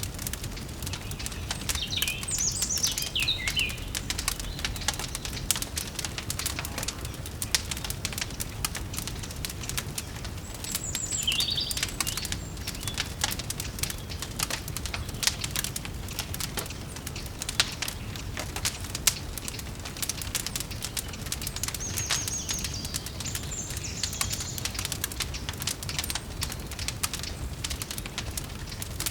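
Wood fire crackling with dense irregular pops over a steady low rumble, while birds chirp in short bursts a few times.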